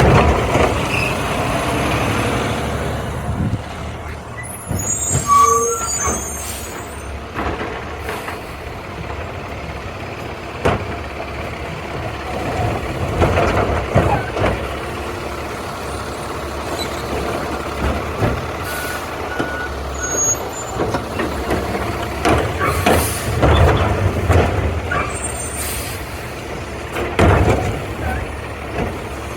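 Garbage truck at work: its engine runs steadily under a series of loud clanks and bangs, with hisses of air brakes.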